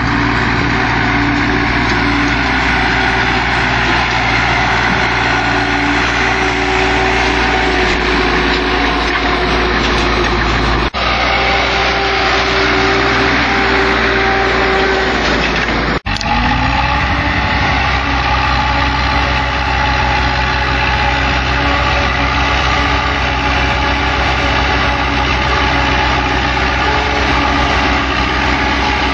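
Diesel farm machinery engine running steadily, with the sound breaking off and changing abruptly twice, as from cuts between shots.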